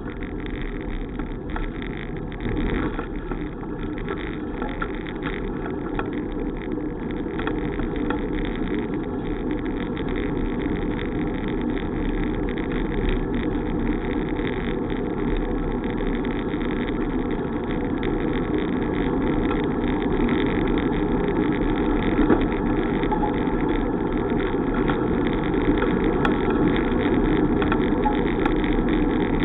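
Steady rushing road and wind noise from a moving bicycle, slowly growing louder as it goes.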